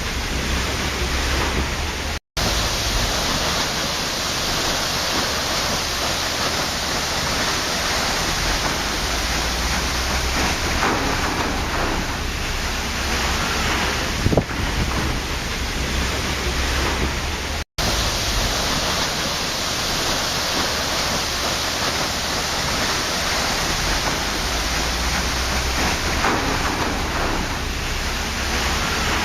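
Waterfall: a steady rush of falling water with deep low rumble. It cuts out for an instant twice, about two seconds in and again past halfway.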